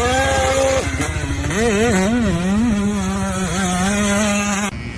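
Off-road motorcycle engine revving, its pitch rising and falling several times under the throttle before holding steady. It cuts off abruptly near the end.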